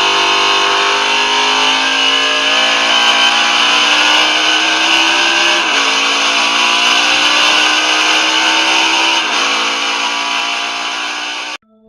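A car engine running at high revs, its pitch climbing slowly and dropping sharply twice, as in shifts up through the gears. It cuts off abruptly near the end.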